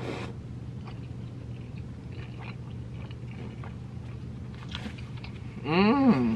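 Close-miked chewing of a mouthful of birria taco, with small wet mouth clicks over a steady low hum. Near the end there is a short hummed vocal sound that rises and then falls in pitch.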